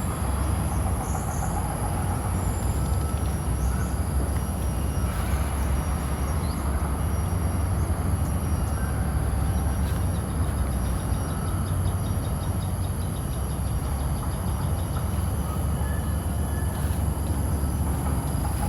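Steady outdoor background noise: a heavy low rumble with an even hiss above it and a thin, steady high tone.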